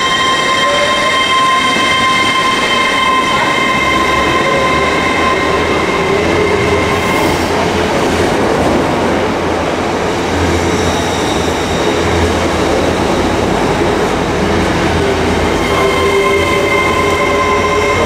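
A train at a station platform, running loud and steady with a low rumble underneath. Several high, steady whining tones sound over it, fade about seven seconds in and come back near the end.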